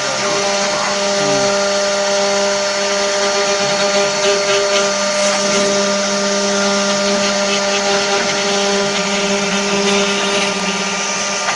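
Multi-spindle CNC wood router running, its spindle motors giving a steady whine of several fixed tones over a constant hiss.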